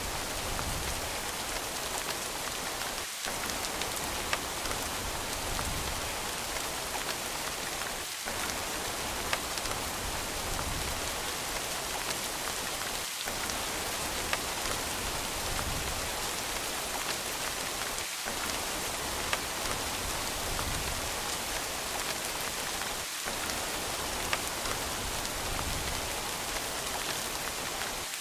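Rain falling steadily, a dense even hiss with scattered sharp drop ticks. A brief dip in the low end recurs about every five seconds.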